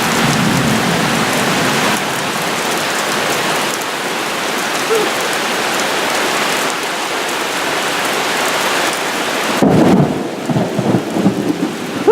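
Heavy rain pouring down in a steady hiss. About ten seconds in, a loud, low rumble of thunder breaks through.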